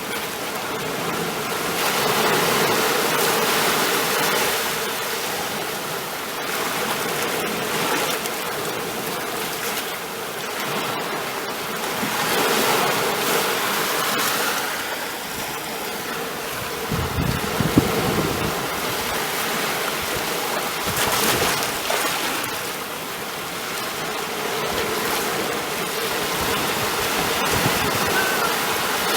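Ocean waves washing on a shore, swelling and ebbing every few seconds, with a louder rush of surf about two-thirds of the way through.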